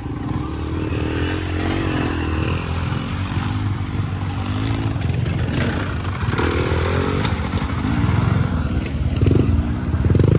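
Off-road vehicle engines (four-wheelers, side-by-sides or dirt bikes) revving through a creek crossing, their pitch rising and falling again and again, getting a little louder near the end.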